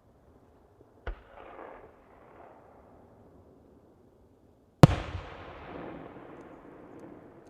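Two aerial firework shells bursting: a smaller bang about a second in, then a much louder one near five seconds. Each is followed by a long tail that dies away over two to three seconds.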